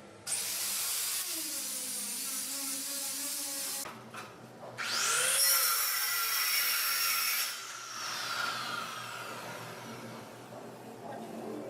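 Electric power tool working wood, run in two bursts of about three seconds each. The second burst winds down slowly after the tool is switched off.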